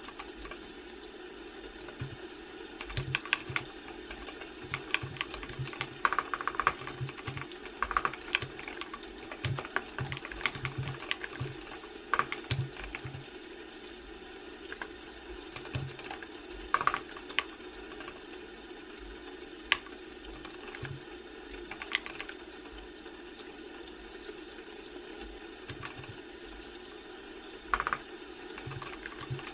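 Typing on a computer keyboard: irregular keystroke clicks in quick runs with short pauses, over a steady low hum.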